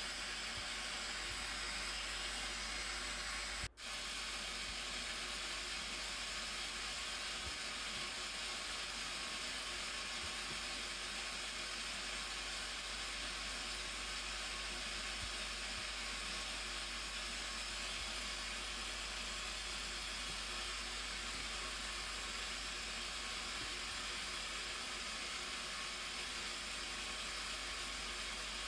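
The Blue Nile Falls, a large waterfall, rushing steadily: an even hiss of falling water. It cuts out for an instant about four seconds in.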